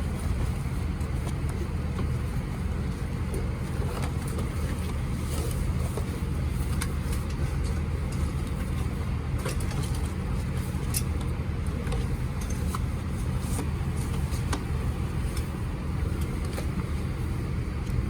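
Steady low hum inside an Airbus A319 cabin parked at the gate, the air-conditioning and ventilation droning evenly, with faint scattered clicks.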